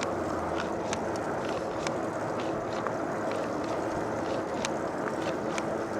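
Steady rushing noise of riding a pedal-assist electric bike, wind and road noise, with scattered light clicks.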